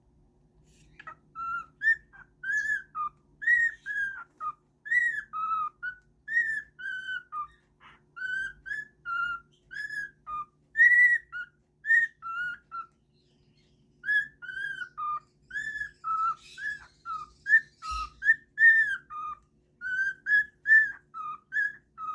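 Pet bird whistling a tune as a long string of short, clear notes, two to three a second, with a short pause about two thirds of the way through.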